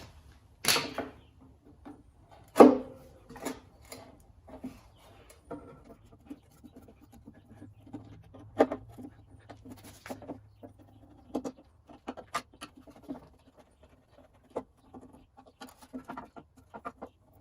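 Scattered clicks and clinks of a screwdriver and small metal parts as screws are taken out of a small flathead engine's tank-mounted carburetor, with two louder knocks in the first few seconds.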